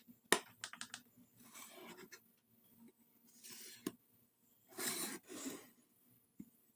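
Pieces of a nailless wooden joint being handled: a quick run of sharp wooden knocks and clicks about half a second in, then several short scraping rubs of wood sliding against wood, with one more knock about four seconds in.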